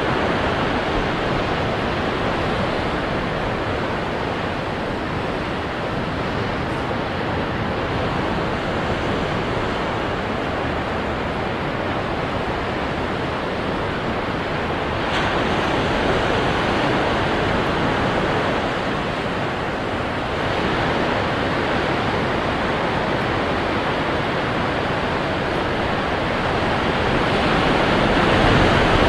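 Ocean waves breaking on rocks: a continuous wash of surf that swells and eases, with stronger surges about halfway through and near the end.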